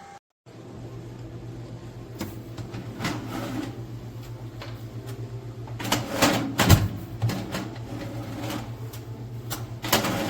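Countertop air fryer oven running with a steady hum, with several knocks and clatters of kitchen handling over it. The loudest knocks come about six to seven seconds in and again near the end.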